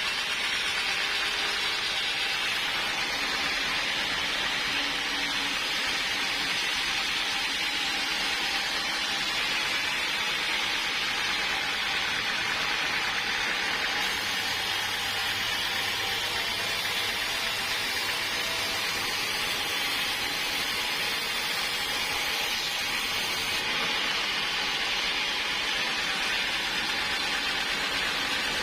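Sawmill machinery running steadily: an even, unbroken noise, with a faint low hum joining for a few seconds in the middle.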